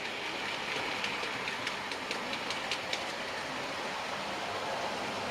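Model train running on the layout track: a steady rolling hum from the wheels and motor, with a run of quick clicks between about one and three seconds in.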